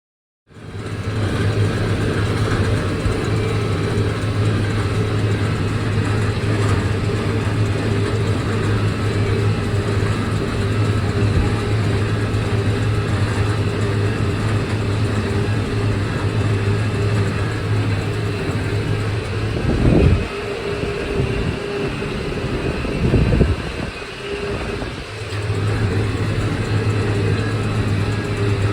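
McCormick MTX 150 tractor engine running with a steady low drone. About two-thirds of the way through, the drone breaks off for roughly five seconds with a couple of brief surges, then resumes.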